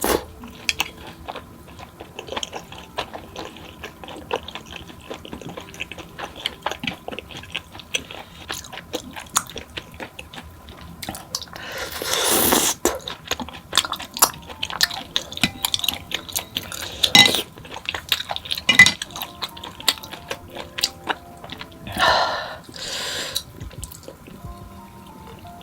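Close-miked eating of tteokbokki and fried snacks: wet chewing with many small clicks of utensils on dishes. There are two longer noisy swells, one about halfway through and one near the end. Soft background music plays underneath.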